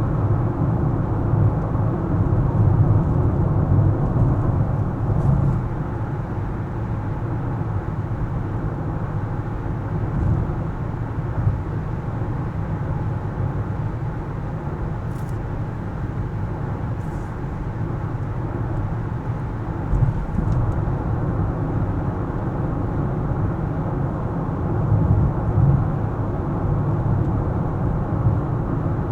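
A car driving through city streets: steady low engine and tyre road rumble that swells and eases a little, with a few faint light ticks about halfway through.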